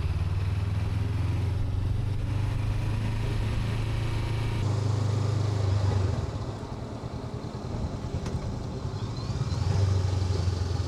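Honda NX500's parallel-twin engine running on the move, steady, easing off about six seconds in and picking up again near the end.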